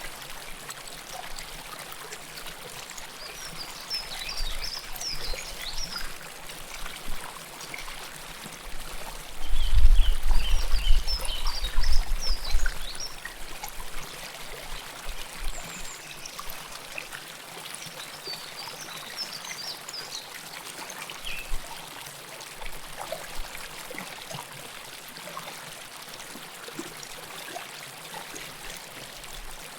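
River water flowing and trickling close up, a steady rush of water. High chirps come through in three short runs, and a low rumble swells for about three seconds about ten seconds in.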